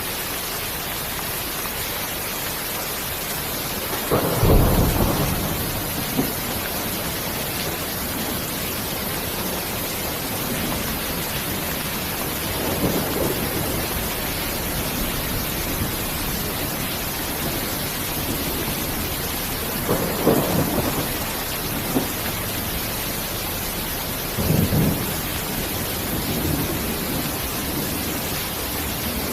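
Steady rain hiss with several short rumbles of thunder, the loudest about four seconds in and others spread through the rest.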